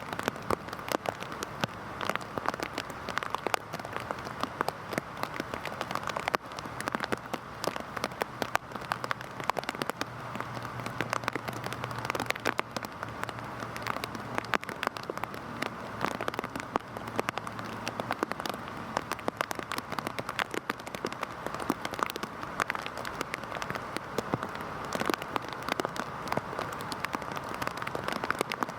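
Heavy rain falling steadily on a hard surface, a dense hiss full of sharp individual drop impacts. A faint low hum sits under it for several seconds in the middle.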